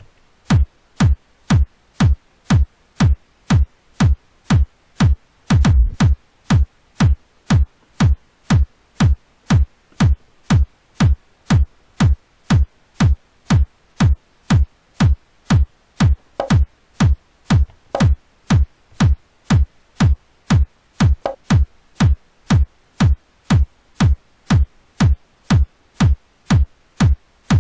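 Electronic kick drum from a software drum machine playing a steady four-on-the-floor loop, about two beats a second, each hit a low boom that drops quickly in pitch. About six seconds in there is a brief rapid cluster of kick hits.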